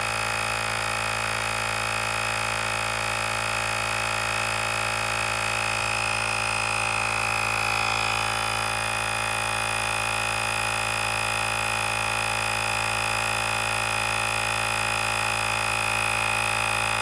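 Portable electric tyre inflator running steadily, its motor and pump whining and humming as it pumps a car tyre up from 32 to 35 psi. The pitch shifts slightly about halfway through.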